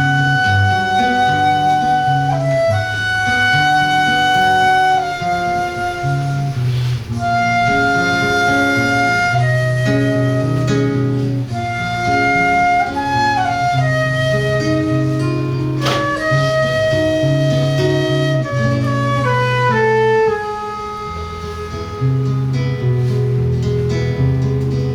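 Flute and seven-string guitar duo playing a slow milonga-style piece. The flute holds long melody notes over the guitar's bass line and chords. About twenty seconds in, the flute line steps down and the playing softens for a moment before the guitar comes back up.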